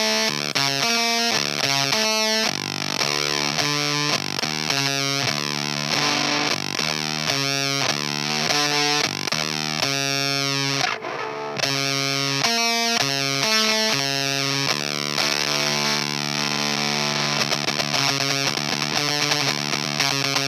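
Baritone electric guitar playing a riff of changing picked notes through an EarthQuaker Devices Erupter fuzz pedal, its dial at about a quarter of the way up for a fuzzed tone. The playing stops briefly about halfway through.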